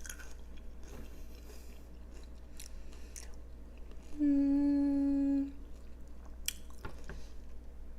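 Close-miked chewing of a burrito, with soft wet mouth sounds and a few small clicks. About four seconds in, a steady hummed "mmm" is held for just over a second.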